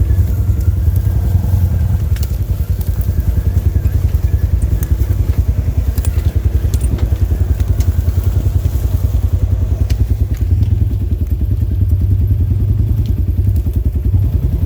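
Polaris RZR side-by-side's engine running steadily under way, with a few sharp clicks scattered through it.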